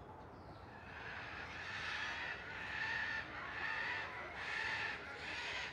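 A series of harsh bird calls, roughly one a second, starting about a second in and staying fairly loud to the end.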